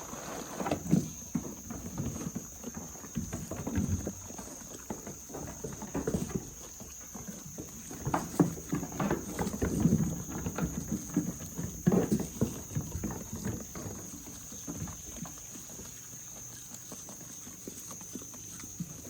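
Goats moving about close by: irregular knocks and scuffles of hooves, busiest about halfway through, over a steady high thin tone.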